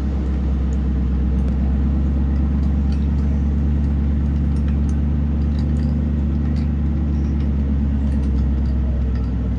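Pickup truck's V8, fitted with a BTR Stage 1 truck cam with DOD and VVT deleted, running steadily while driving, heard from inside the cab as a constant low drone with road noise.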